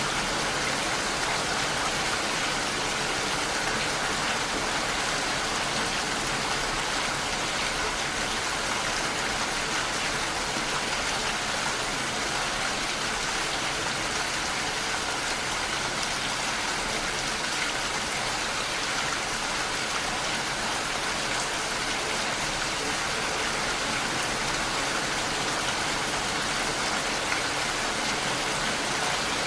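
Steady rainfall, an even hiss of drops falling on a surface.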